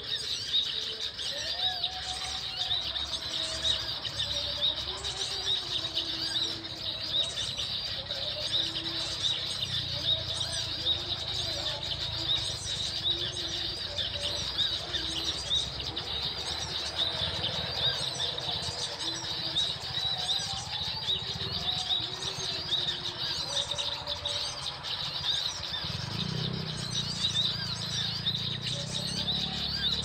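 Birds chirping rapidly and without pause in high, dense calls, with lower calls repeating beneath them. A low rumble joins about 26 seconds in.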